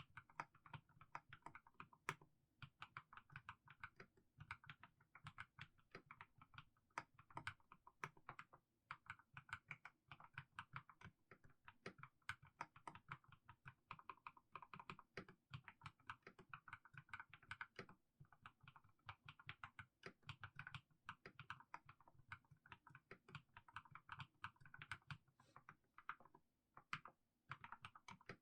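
Quiet, steady typing on a mechanical keyboard with fully lubricated Haimu Sea Salt switches: a continuous stream of soft keystroke clacks with a low, rounded body, broken by a few brief pauses.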